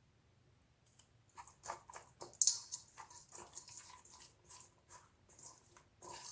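Kitchen food-prep handling: raw chicken pieces and seasoning containers being moved and handled. It comes as a run of small irregular clicks and taps, starting about a second in.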